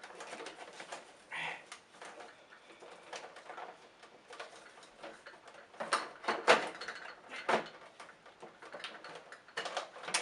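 Irregular clicks and knocks of plastic parts and a rubber drive belt being handled as the belt is stretched over the brush roll of a Hoover Turbopower vacuum cleaner, with a few louder knocks about six and seven and a half seconds in.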